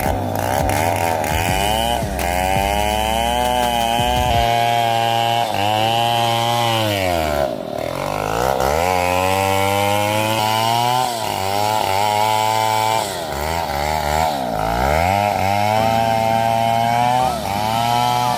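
Chainsaw cutting wood, its pitch wavering as the chain loads and unloads in the cut. Twice, about halfway through and again near three-quarters of the way, the revs drop sharply and then climb back.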